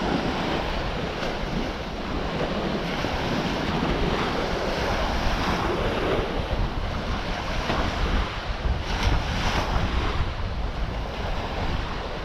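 Wind buffeting the microphone with a low rumble, over sea waves washing onto the beach that swell louder a few times.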